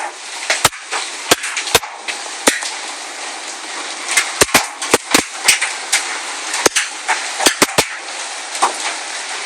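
Large hailstones, baseball- and golf-ball-sized, striking the house in sharp, irregular cracks, a dozen or more, over a steady hiss of the storm.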